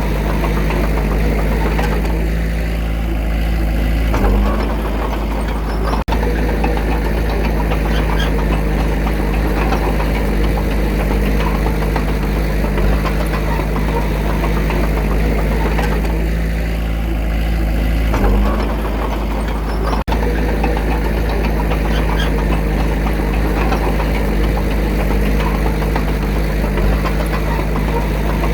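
Diesel engine of a small bulldozer running steadily under work. Twice, about fourteen seconds apart, its sound eases for a couple of seconds and then picks up again with a short surge.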